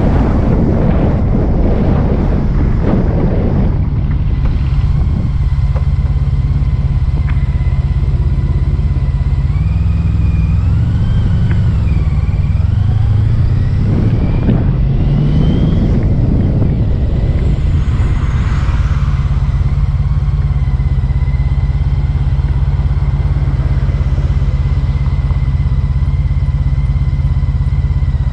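Motorcycle engine running steadily while riding, with wind noise over the microphone in the first few seconds. A wavering high whine rises and falls briefly near the middle.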